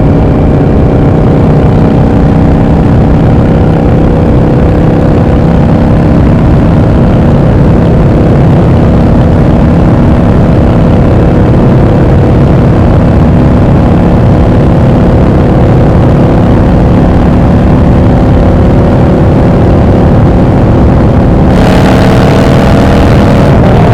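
Yamaha XVS650 V-Star (Dragstar) bobber's air-cooled V-twin running under way at a fairly steady engine speed. A hissing rush comes in near the end, and the engine note shifts just after it.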